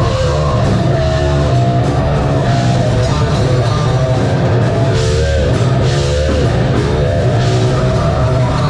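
A metal band playing live: distorted guitars and a drum kit, with a high melodic line that bends up and down in pitch over the dense low end.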